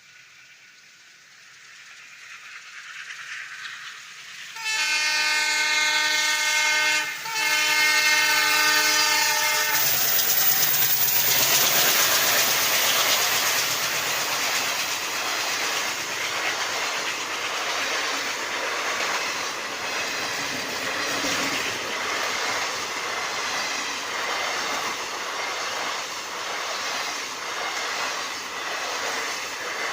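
Express train approaching with a growing rumble, sounding two long horn blasts back to back, then thundering over the level crossing with its wheels clattering rhythmically over the rail joints as the coaches pass.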